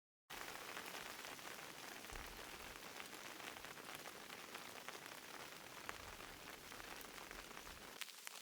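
Steady rain falling, with many separate drops tapping on a surface; it starts abruptly just after the beginning.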